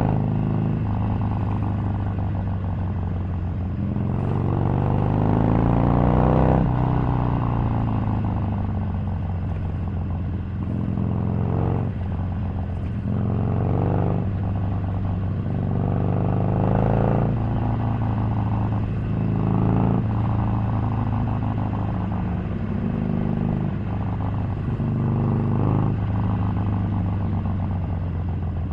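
Harley-Davidson Sportster 883's air-cooled V-twin running on the move, its pitch rising under throttle several times and falling back each time as it shifts or eases off.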